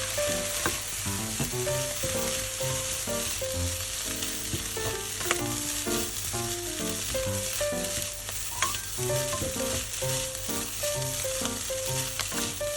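Fried rice sizzling in a frying pan as it is stirred, with a few sharp clicks of the utensil against the pan. Background music with a simple stepping melody plays underneath.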